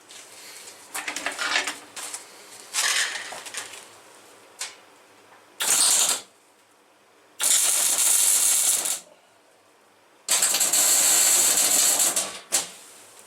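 Electric arc welder spot-welding rusty scrap metal: five bursts of crackling hiss as the arc strikes and stops, the first few short and broken, the last two steadier and longer, about one and a half and two seconds.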